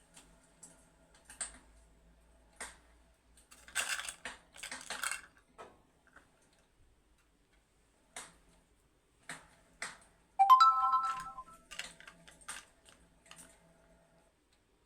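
Scattered soft clicks and two short rustling bursts about four and five seconds in. About ten seconds in comes a sudden ringing tone with a few clear pitches that dies away within a second; it is the loudest sound.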